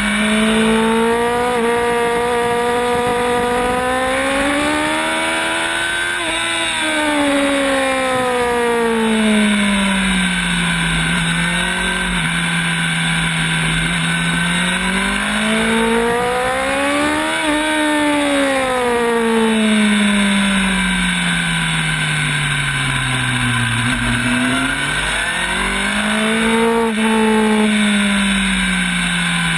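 Onboard sound of a sport motorcycle's engine on a track lap: the engine note climbs and falls in long sweeps as the rider accelerates and slows through the corners, peaking about six and seventeen seconds in, dropping low a few seconds before the end and then rising again quickly. A steady rush of wind runs underneath.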